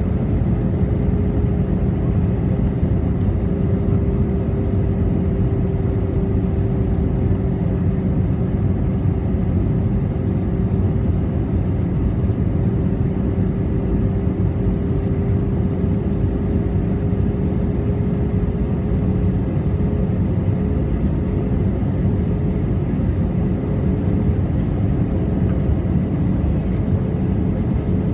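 Airliner cabin noise: a steady rumble of engines and airflow with a constant hum, the hum wavering and breaking up after about twenty seconds.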